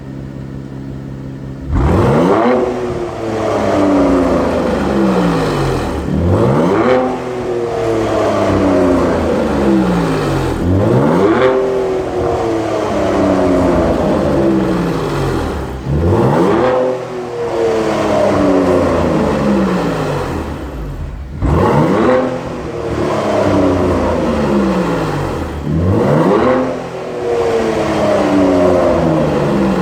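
Cadillac V-series sedan with a Bola variable-valve quad exhaust: the engine idles briefly, then is free-revved six times, about every four to five seconds. Each blip is a quick rise in pitch followed by a slow fall back toward idle.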